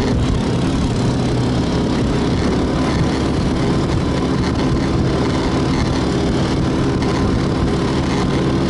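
A vehicle engine running at a steady speed while travelling, with no change in pitch or level.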